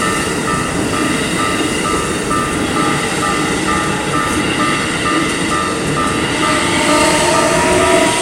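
Japanese level-crossing warning bell dinging about two and a half times a second while a Keikyu Line train passes over the crossing, its wheels and running gear making a loud, steady rumble and clatter.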